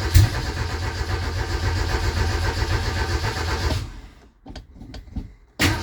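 Starter cranking the Shay Thunderbird's Ford 2.3-litre four-cylinder on a cold start for about four seconds without it catching, then stopping; a few faint clicks follow and cranking begins again near the end. The choke is sticking.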